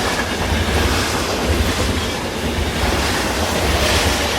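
A steady, loud rumbling noise: an uneven deep rumble underneath with a hiss spread across the top, and no clear rhythm or pitch.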